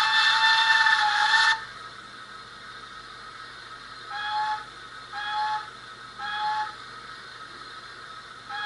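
Recorded Stanier 8F steam locomotive sounds played by a model's DCC sound decoder: a long steam whistle that stops about a second and a half in. From about four seconds in, short toned sounds of a similar pitch repeat about once a second.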